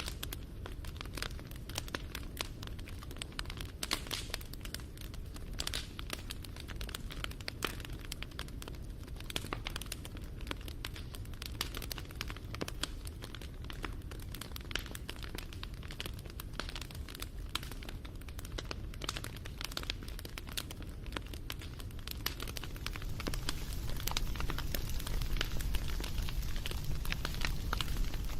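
Bonfire crackling: dense, irregular pops and snaps of burning wood over a low rumble of flame, growing a little louder and fuller about three quarters of the way through.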